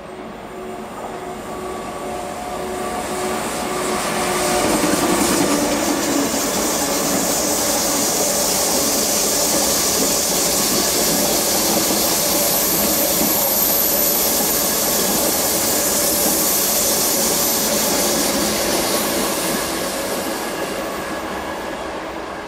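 An ICE high-speed electric train passing on the mainline tracks: a loud rush of wheels and air, with some whine early on, that builds over the first few seconds, holds steady for about fifteen seconds, then fades near the end.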